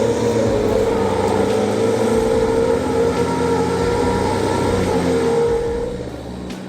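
Off-road 4x4 engine running hard under load at a steady pitch, fading down near the end.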